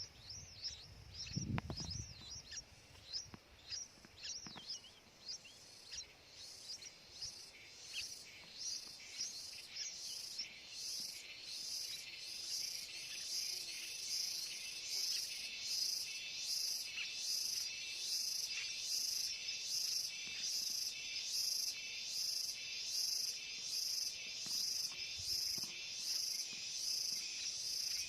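Birds chirping in quick, falling notes for the first several seconds. Then a steady, rhythmic high-pitched insect chirping, a little more than one pulse a second, takes over.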